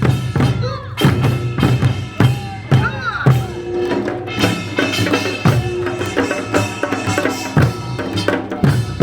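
Live Korean folk performance music: drums and other percussion struck in a steady beat, with sustained pitched tones over them.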